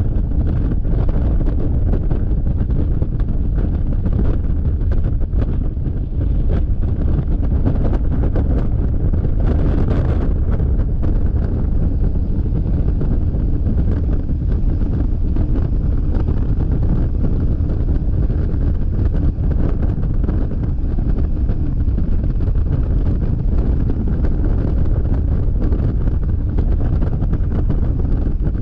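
Steady wind roar buffeting the camera microphone of a Yamaha XMAX scooter at freeway speed, with the scooter's running and road noise underneath. A brief louder rush about ten seconds in.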